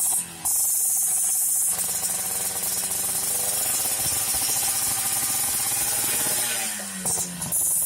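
Yamaha RX King's single-cylinder two-stroke engine revving through a YA MGM aftermarket exhaust, held at high revs with a crisp hiss, then dropping in pitch near the end.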